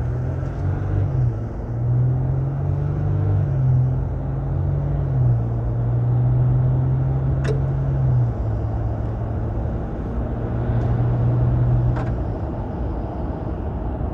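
Ram's 3.0-litre V6 EcoDiesel engine accelerating hard, heard from inside the cab. Its tone climbs and drops back several times as the transmission shifts quickly up through the gears. Despite the aftermarket turbo inlet pipe, there is little intake whoosh, with two brief clicks partway through.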